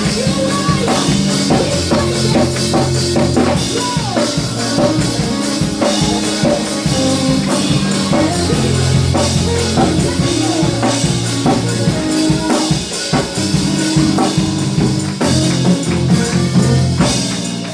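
Live church worship band playing loud and steady, with a drum kit beating a regular rhythm over bass.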